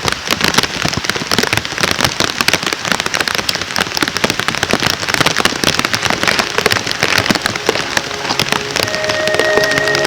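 Wood campfire crackling and popping in a dense, continuous stream of sharp snaps. Music with held notes comes in near the end.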